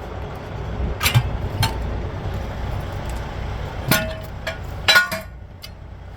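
Metal clanks of tools striking a steel truck wheel rim while the tire is being taken off it: four sharp hits, the last two ringing briefly, over a low steady rumble.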